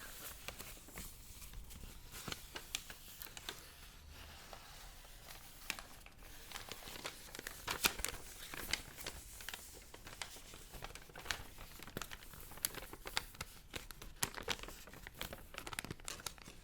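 Paper being crinkled and handled close to the microphone, with irregular crisp crackles and rustles throughout.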